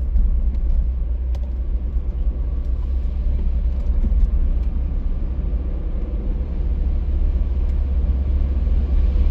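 Steady low rumble of a car being driven, heard from inside the cabin, with a few faint ticks.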